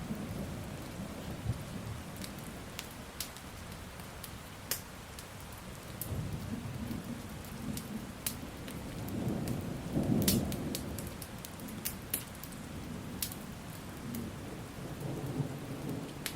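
Steady rain with low rolling thunder that swells twice, loudest about ten seconds in, and the scattered sharp pops of a crackling wood fire.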